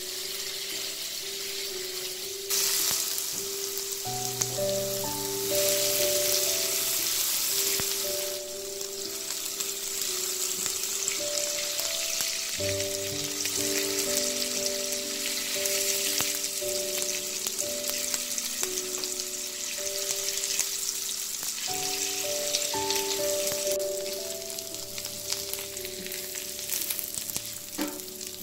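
Tadka of chopped onion and dried red chillies frying in ghee in a pan, a steady sizzle as it is stirred with a silicone spatula; the sizzle grows louder about two and a half seconds in. Background music with a simple melody plays under it.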